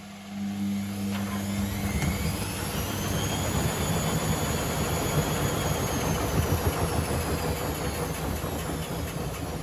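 Privileg Sensation 952 S top-loading washing machine spinning up: a motor whine rises in pitch over a loud rushing noise, holds, then slowly falls again. This is a short spin, which this machine also runs between its rinses.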